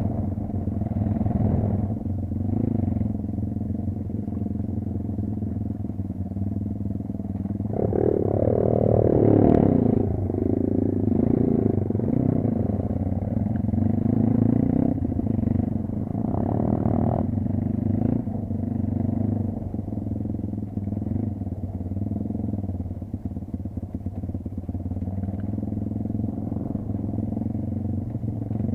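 Kayo dirt bike engine running while being ridden off-road, the revs rising and falling with the throttle. It revs up sharply about eight seconds in, then the pitch slides back down.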